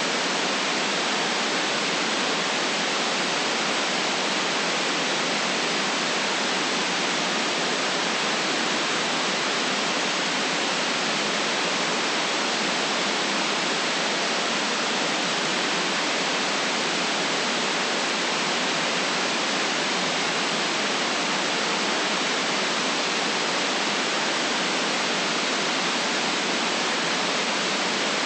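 Steady white noise: an unchanging hiss with little deep bass and no highest treble.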